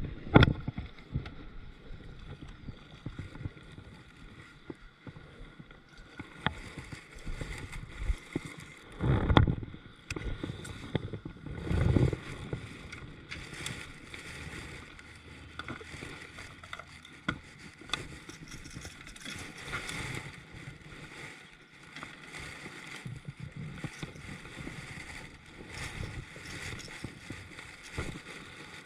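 Small knocks and clicks of handling aboard a kayak, over faint water and moving air, with two louder dull bumps about nine and twelve seconds in.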